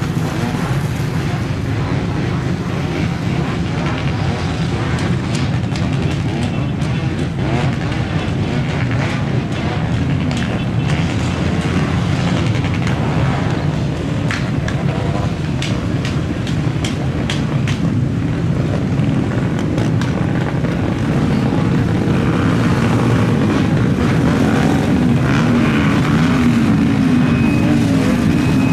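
Jet airliner engines running with a steady, heavy rumble at the airport, growing louder near the end.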